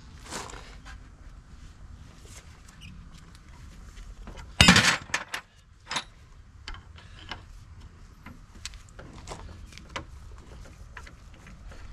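Hands working the tractor loader joystick's handle and rubber boot: scattered light clicks and rustles, with one loud knock about five seconds in and a few sharper clicks after it.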